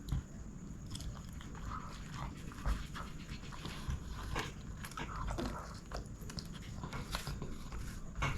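Close-miked chewing and mouth sounds of someone eating chicken biryani: irregular wet smacks and clicks throughout.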